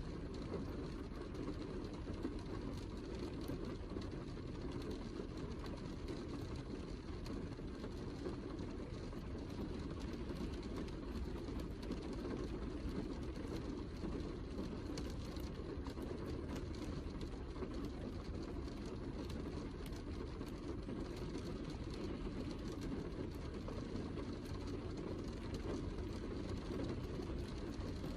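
Steady heavy rain: a dense, even hiss of falling water with many small drop ticks scattered through it.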